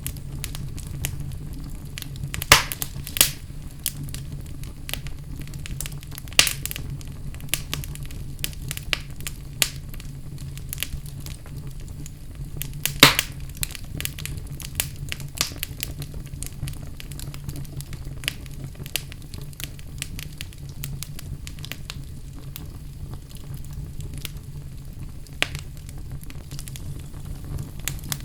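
Wood fire burning in a fireplace, crackling steadily with a handful of sharper pops, over a steady low hum.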